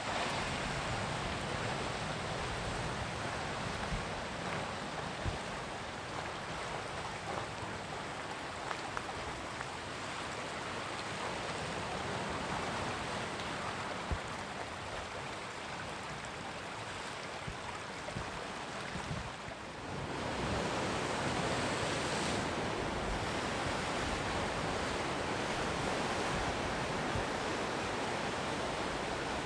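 Sea surf breaking and washing on the shore: a continuous rushing of waves that swells louder about two-thirds of the way through.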